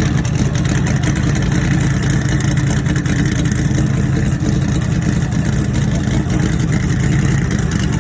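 Twin-turbo C6 Corvette V8 running at a steady engine speed, with no rise in revs.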